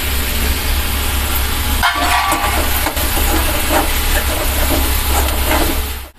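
Chopped onion, garlic and green chillies sizzling in hot oil in a kadai, with a metal ladle scraping and stirring them in several strokes over a low steady hum. The sound drops out briefly at the very end.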